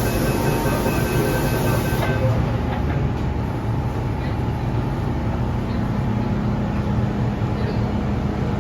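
MTR Tsuen Wan Line M-Train running, a steady rumble of wheels and motors heard inside the car. A couple of thin high tones and a hiss stop about two seconds in.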